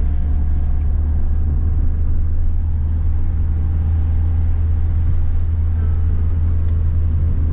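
Steady low drone of a Nissan 350Z's engine running, heard from inside the cabin.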